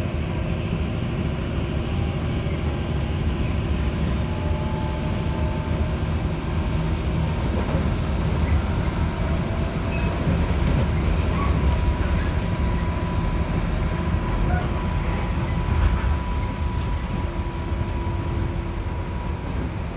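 211 series electric train running along the line, heard from inside the carriage: a steady rumble of wheels on rail with a few faint, steady whining tones above it.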